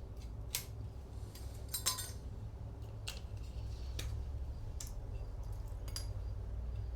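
Sharp metallic clicks and clinks from hand tools working a small metal tab off the grinder's wooden door, about one a second, with the loudest cluster about two seconds in, over a steady low hum.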